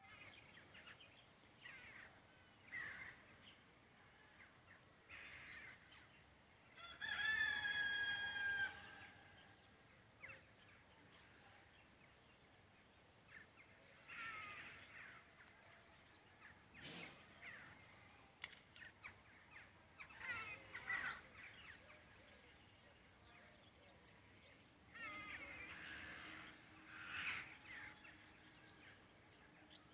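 A rooster crowing once, a long loud held call about seven seconds in, with other birds calling now and then before and after it.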